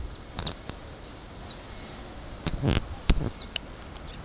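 A few short, high chirps from a small bird over steady outdoor background noise, with a short rustling thump about two and a half seconds in and a sharp click just after three seconds.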